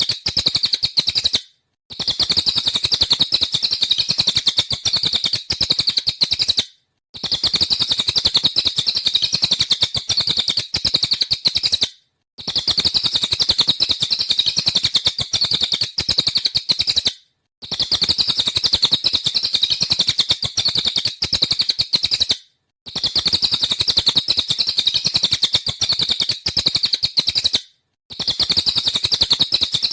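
Cililin songbird singing in 'nembak' style: a dense, rapid run of high chirps without let-up, in stretches of about five seconds broken by short, evenly spaced silences.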